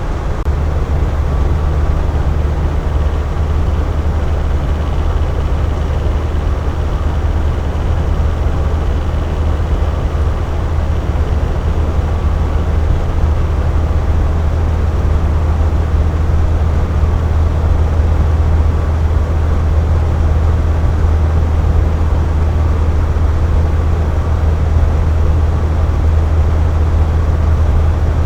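Air conditioner running, a steady low hum under an even rush of air.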